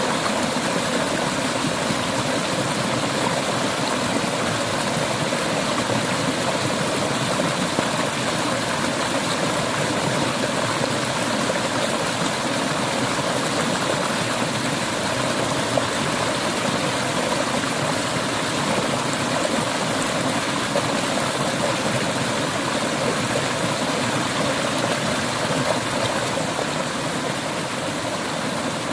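River water flowing, a steady, unbroken rush of moving water.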